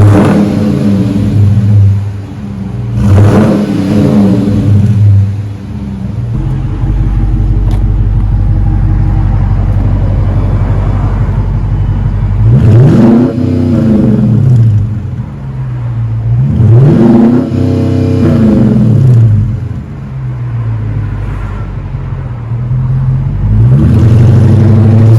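2021 Dodge Charger R/T's 5.7-litre Hemi V8 running through an exhaust with the resonators deleted. It idles with a deep rumble and is revved several times: a short blip about three seconds in, then two longer revs that climb and fall back to idle around the middle and later on.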